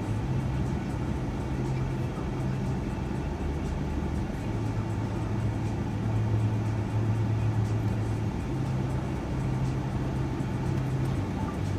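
Cabin noise inside a moving shuttle van: a steady low engine drone over road noise. The drone steps up and down in pitch several times as the van changes speed.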